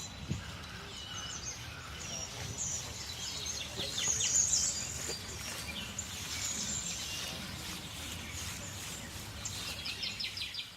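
Many small birds chirping and twittering together, busy overlapping high calls and short trills, over a low steady background noise.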